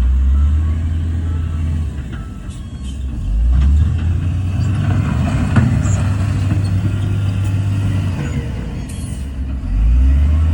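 Heavy diesel engines of earthmoving machinery (bulldozer and dump trucks) running, with a deep low drone that swells under load at the start, about four seconds in and again near the end.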